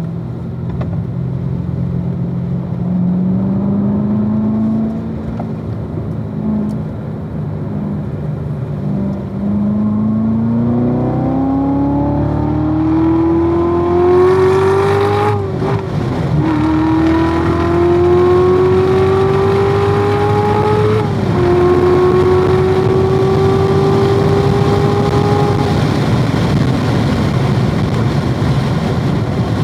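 2016 Corvette Z06's supercharged 6.2-litre V8 at speed, under uneven throttle at first and then pulling hard with its pitch climbing. It upshifts twice, about halfway and two-thirds of the way through, then eases off near the end.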